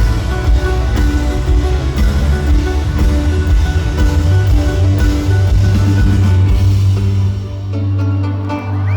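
Live folk-rock band playing an instrumental passage loudly, with guitars, heavy bass and a full drum kit. About seven and a half seconds in, the drums and cymbals fall away, leaving held chords.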